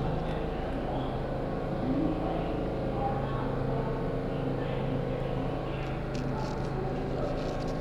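R62 subway train running, a steady hum with several held tones over a low rumble.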